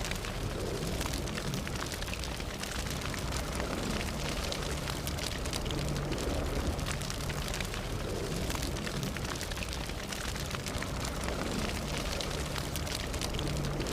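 Fire burning with a steady low rumble and many small crackles and pops throughout.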